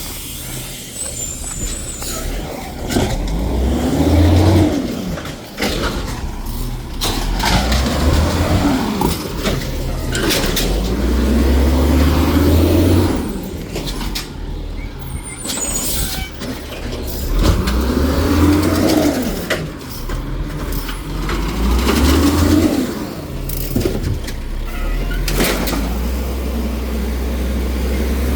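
Garbage truck's diesel engine revving hard and dropping back about five times, running the hydraulics while it packs trash. Brief clanks and hisses come between the revs.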